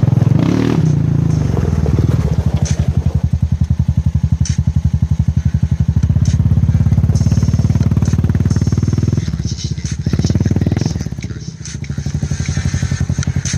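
Honda Rubicon ATV's single-cylinder engine running through its exhaust with a steady, even thumping beat. The throttle is blipped briefly near the start and again about ten seconds in.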